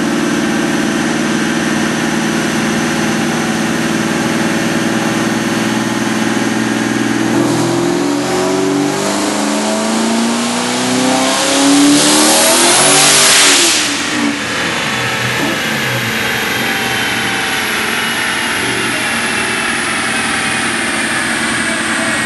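Twin-turbo 5.4-litre four-valve Ford V8 in a Saleen Mustang on a chassis dyno. It runs steadily in gear, then from about seven seconds in it revs up under full throttle in a rising pull, loudest about twelve to thirteen seconds in. The throttle shuts suddenly about fourteen seconds in, and the engine winds down.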